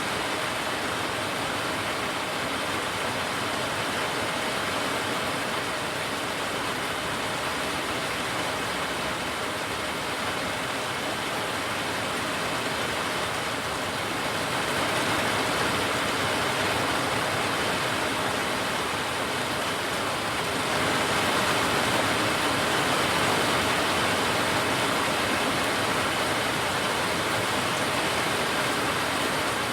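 Steady rain falling in a backyard, an even hiss of drops on surfaces that gets a little heavier about halfway through and again about two-thirds of the way in.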